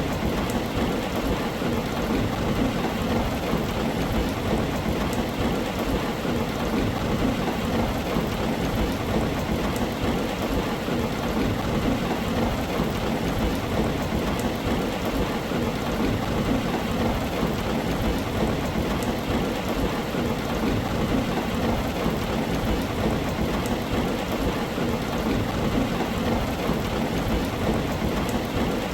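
Steady, heavy rain falling on a tin roof, a dense, even patter with a low rumble of thunder underneath and no distinct claps.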